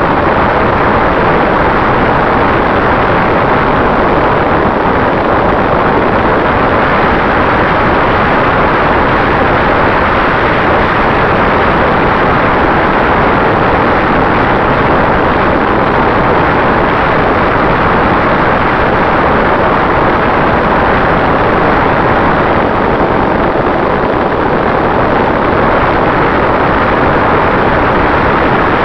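Steady, loud rush of propeller and wind noise from an FPV drone in flight, with a faint constant tone held throughout.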